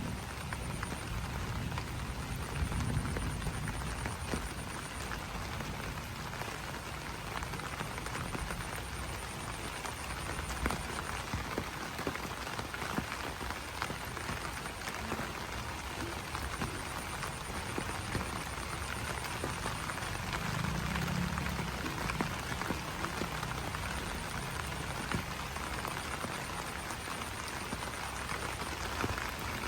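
Steady rain falling on broad banana leaves: a dense, even spray of small drop hits. Low croaking calls come in near the start and again about two-thirds of the way through, and a faint high-pitched pulsing trill comes and goes throughout.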